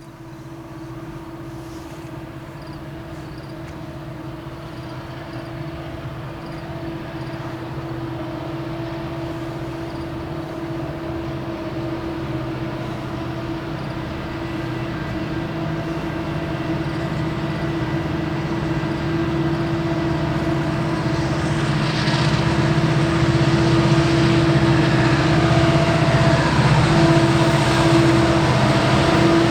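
Diesel locomotive approaching, its engine drone steady in pitch and growing steadily louder; a hiss builds in about two thirds of the way through as it draws near.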